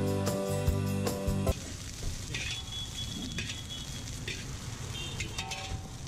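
Background music that cuts off about a second and a half in, then fried rice sizzling in a hot iron wok, with a metal spatula scraping and stirring against the wok.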